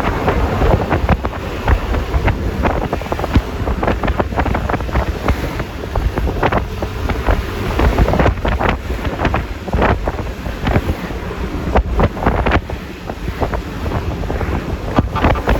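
Wind buffeting the microphone of a phone mounted on a moving Yamaha Lexi LX 155 scooter, in uneven gusts over a steady rumble of road and engine noise.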